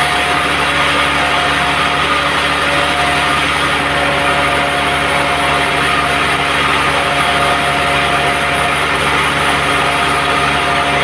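Band sawmill running with a steady mechanical drone and several held tones, even in level.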